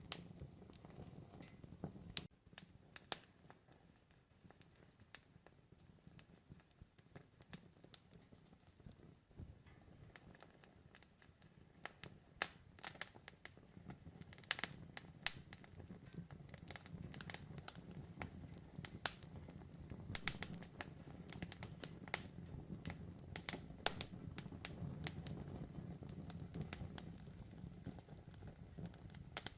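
Campfire crackling: irregular sharp pops and snaps over a low, steady rumble of burning wood. The rumble grows louder in the second half.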